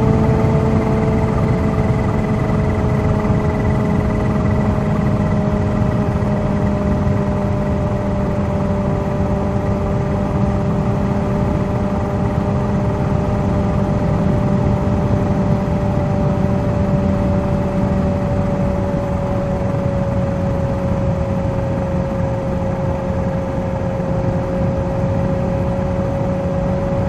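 Kawasaki Z H2's supercharged inline-four engine running at a steady cruise, its pitch sagging slightly in the second half, over a constant rush of wind noise.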